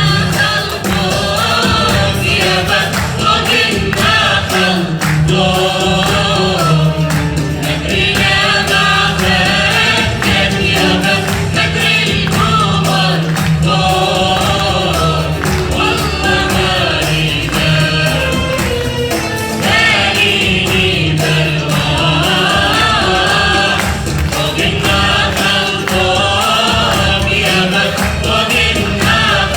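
A choir of voices singing a song together, accompanied by percussion, in a live performance.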